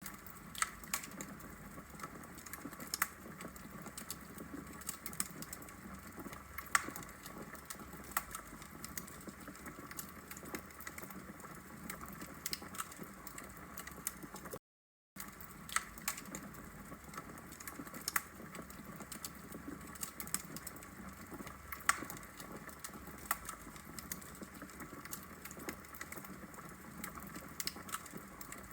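Wood logs burning in a fireplace, crackling and popping irregularly over a low steady hiss of the fire. The sound cuts out to silence for about half a second around the middle.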